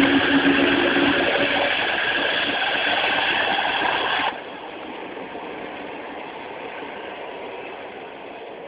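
Running noise of a moving train heard from on board: a steady rush and rattle of wheels on track, with a brief low tone in the first second. About four seconds in it drops abruptly to a quieter, duller level and carries on steadily.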